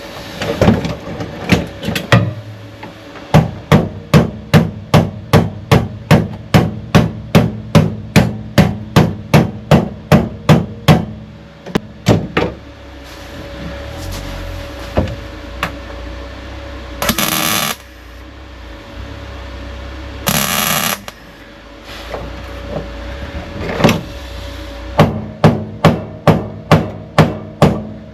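Hammer blows on sheet steel, knocking a new boot floor repair panel into place: a long run of sharp, evenly spaced strikes about two a second, a pause, then a second run near the end. Twice in the pause there is a harsher noisy burst of about a second.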